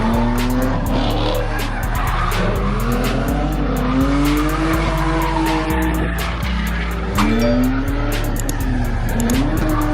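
A car doing a burnout: the engine revs up and down while the tyres squeal and hiss. Under it runs hip-hop music with a heavy bass line and fast, evenly spaced hi-hat ticks.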